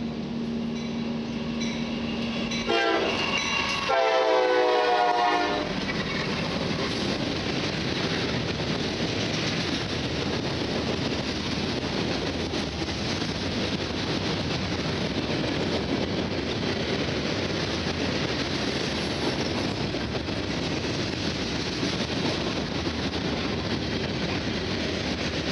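Diesel freight train led by a GE C44-9W locomotive sounds its horn for about three seconds, starting about three seconds in. A long string of steel gondola cars then rolls past with a steady rumble and wheel clatter.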